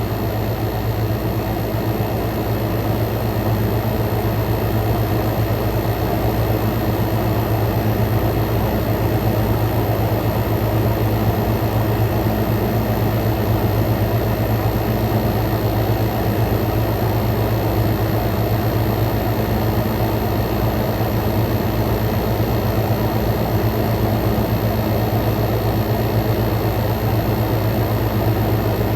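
Frigidaire Gallery 10,000 BTU dual inverter window air conditioner running at full power: compressor and fans giving a steady low hum with an even rush of air and a few faint steady tones above it.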